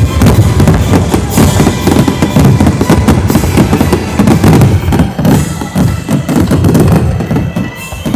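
A fireworks display going off in a rapid, near-continuous run of explosions, over loud accompanying music.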